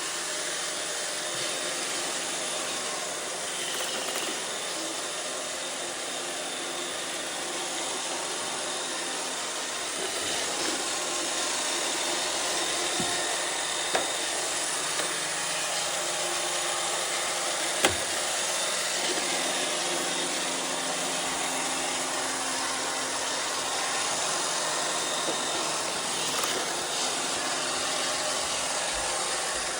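iRobot Roomba 630 robot vacuum running, with a steady whir of its vacuum motor and brushes, the motor freshly oiled. Two short sharp knocks come through about halfway.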